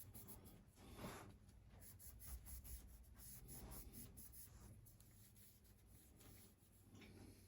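Faint, irregular rubbing strokes of Nevr-Dull polishing wadding being worked over a pocketknife.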